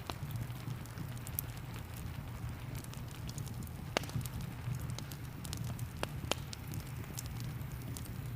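Wood fire in a fireplace crackling, with a few sharp pops about four and six seconds in, over a steady low rumble and the hiss of rain.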